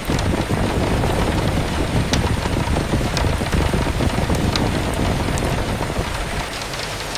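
Steady rain with scattered drops ticking sharply, under a strong gust of wind that adds a deep rumble and eases off near the end.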